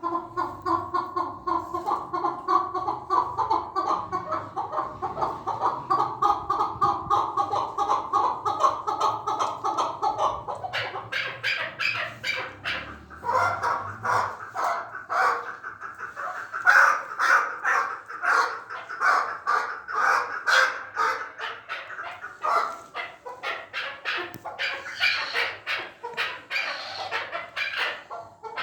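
Chukar partridge calling: a long run of rapid, repeated clucking notes. The notes are lower and steadier for the first ten seconds, then turn higher and sharper.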